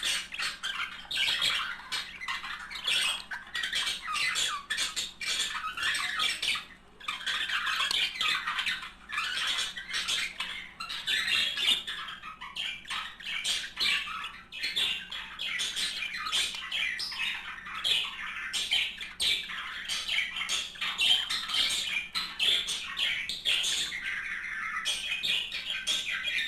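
A pair of budgerigars warbling and chattering without a break: a fast jumble of squawks, chirps and clicks, pausing briefly about a quarter of the way through.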